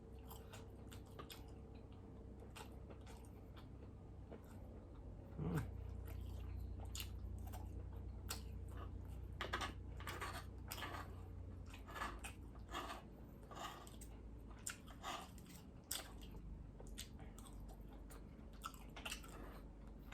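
Close-miked chewing of sausage: soft wet smacks and clicks of the mouth scattered throughout. There is a brief falling hum of the voice about five seconds in.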